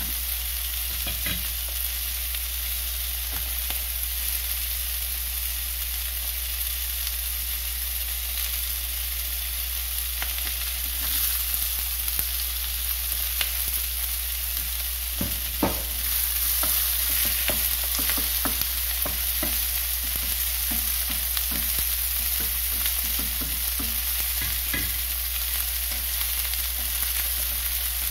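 Filefish fillets and ginger slices sizzling in hot oil in a nonstick frying pan, a steady crackling hiss. Short taps and clicks of a wooden spatula and chopsticks against the pan come through it, more often in the second half.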